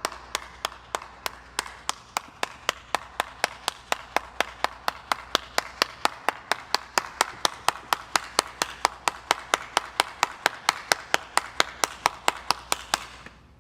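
A steady run of sharp, evenly spaced clicks, about four or five a second, over a faint low hum, stopping shortly before the end.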